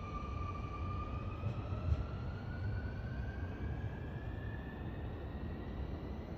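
Sotetsu 21000 series electric train pulling away: its inverter and traction motors give a steady whine that begins rising in pitch about a second in as the train gathers speed, over a low rumble.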